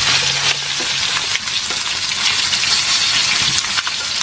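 Chicken pieces frying in hot oil in a pan: a steady, dense sizzle with small crackles and pops through it.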